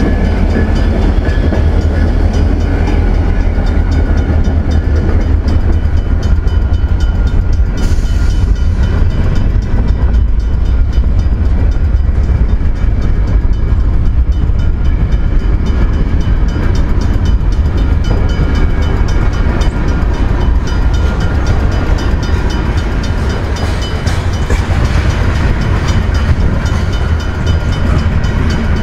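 Slow mixed freight train of hoppers and tank cars rolling close past, steel wheels clicking over the rail joints in a steady, loud run. In the opening seconds the tail of the second EMD diesel locomotive (a GP40-2WL Geep) is still going by.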